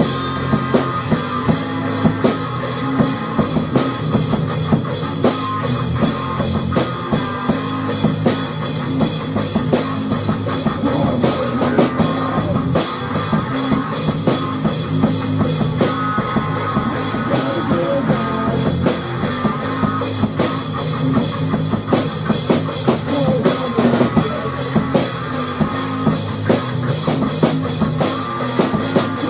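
Rock music: a full drum kit with bass drum and cymbals playing a steady, driving beat over guitar. The drums come in right at the start.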